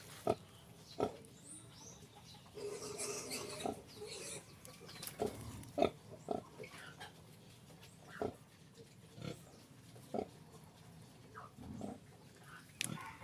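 A sow and her young piglets grunting and squealing in short, scattered bursts, with a busier stretch of high squeals a few seconds in.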